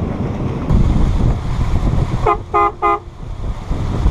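A horn beeps three short times in quick succession on one pitch, over a steady low rumble and wind noise on the microphone.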